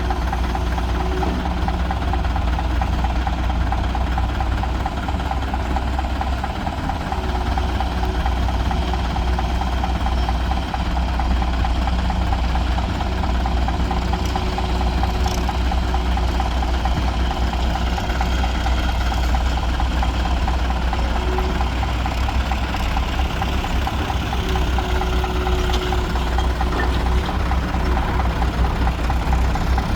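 Heavy diesel engines running steadily at a low, even pitch, with a faint higher whine that comes and goes several times.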